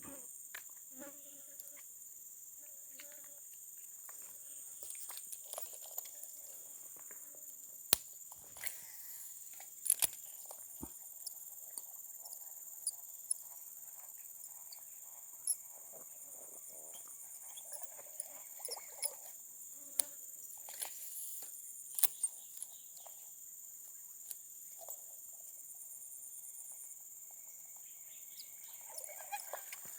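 Insects droning steadily at a high pitch, with scattered sharp clicks.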